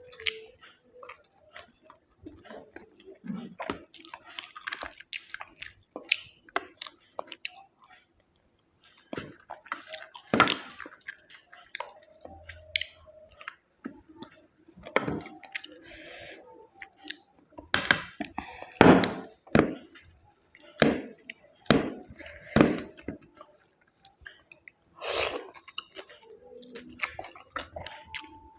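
Close-up eating sounds of a person eating chicken biryani: wet chewing and mouth smacks with irregular small clicks, broken by a louder sharp noise every few seconds. Everything stops briefly about eight seconds in.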